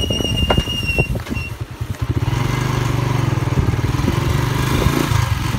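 A vehicle engine running steadily, turning louder and more even about two seconds in. A thin, steady high tone sounds over it during the first second.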